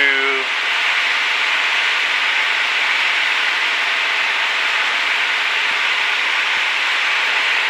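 Steady rushing cabin noise of a Cessna 152 in flight, its four-cylinder engine and the airflow blended into an even hiss as heard through the pilot's headset intercom, with the low end cut off.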